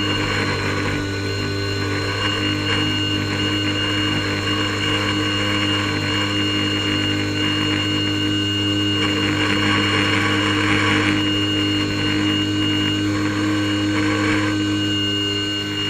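Airboat engine and propeller running steadily at a constant pitch, with a brief swell in the rushing noise partway through.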